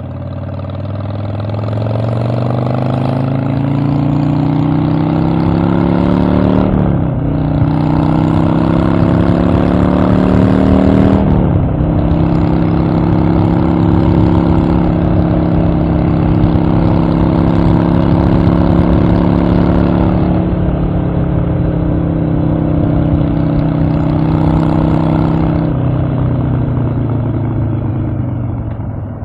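Harley-Davidson Evolution V-twin engine pulling hard under load, rising in pitch through the gears with two upshifts about 7 and 11 seconds in. It then holds a steady cruise and eases off a little in the last few seconds.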